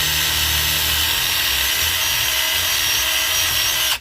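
Electric drill, likely battery-powered, running steadily at full speed while boring a hole straight through a knob blank. It keeps a constant whine and stops abruptly at the end.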